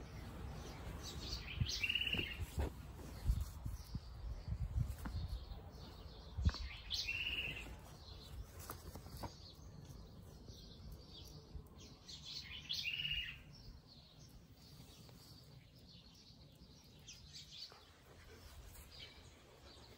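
A bird calls three times, a short high call repeated every five or six seconds. Over the first half there are low knocks and rustling from the handheld phone being moved against clothing.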